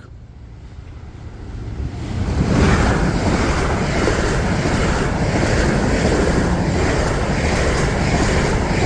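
A train running past over the level crossing: a rushing rumble that builds over the first two seconds or so and then holds steady and loud.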